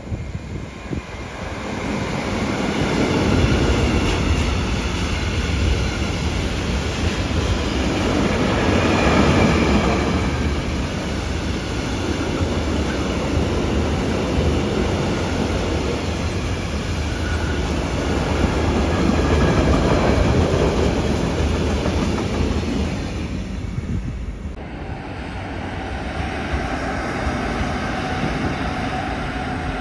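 A train running past on the tracks, its wheels rumbling steadily, swelling and easing a few times. The sound changes abruptly about 25 seconds in.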